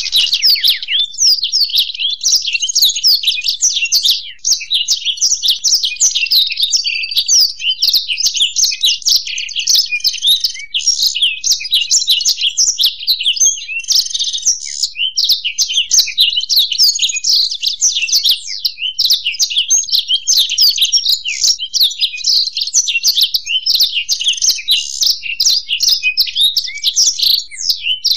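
Blackthroat (black-throated canary) and European goldfinch singing together: a dense, unbroken run of rapid high chirps and trills.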